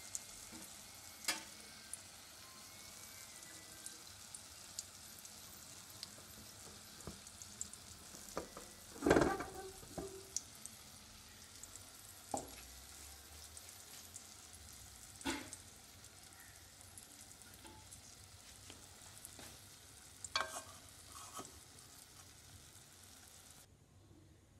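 Potatoes, peppers and egg sizzling steadily in an aluminium karahi, with scattered metal clinks and scrapes against the pan. The loudest is a scraping clatter about nine seconds in. The sizzle cuts off near the end.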